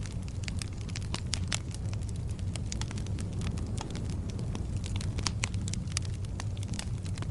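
Fire burning in a fireplace: steady crackling with many irregular sharp pops over a continuous low rumble.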